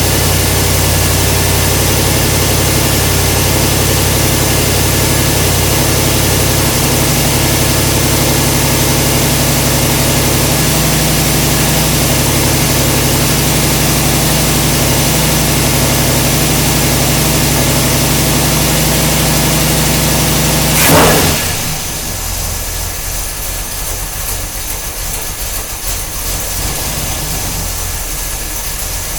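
1969 Buick 430 cubic-inch V8 with dual Quadrajet carburetors and a TA Performance 310 camshaft, running at a steady fast idle while warming up from a cold start. About two-thirds of the way through it gives one quick blip and then settles to a slower, quieter idle.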